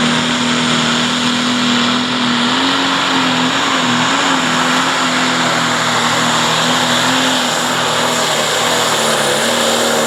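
Pro Stock pulling tractor's Shipley diesel engine in a John Deere 6030, running flat out under load during a pull, its pitch holding steady apart from a brief wobble and dip about four seconds in.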